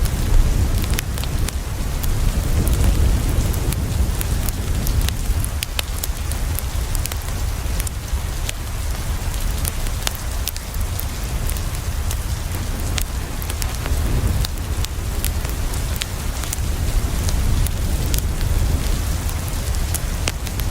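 Steady rain with a deep low rumble beneath it, and many sharp crackles and pops from a wood fire scattered through it.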